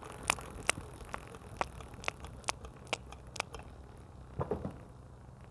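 Motorcycle drive chain clicking ('kot kot') at the front sprocket as the drivetrain turns, about two sharp clicks a second, then a short cluster and it stops near the end. The clicking is the sign of a dry chain and sprocket that need oiling at the sprocket root.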